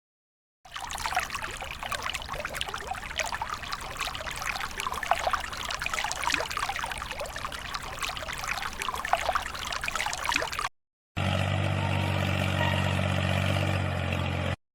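Water splashing and trickling steadily, full of small droplet splashes, from a miniature DIY water pump's outflow. It cuts off about ten seconds in, and after a short gap a steady low motor hum takes over.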